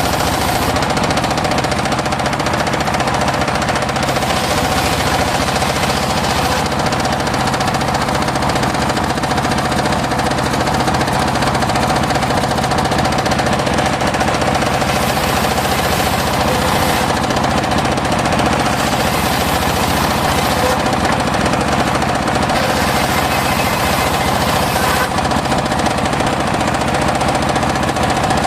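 Home-built circular sawmill running steadily, its blade sawing mahogany, with a fast, even knocking from the machine under a constant hum. The hiss rises and falls every couple of seconds.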